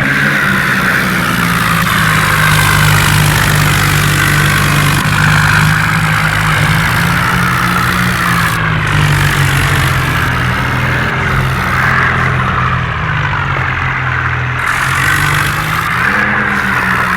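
Tractor diesel engine running steadily under load, its pitch rising and falling slightly.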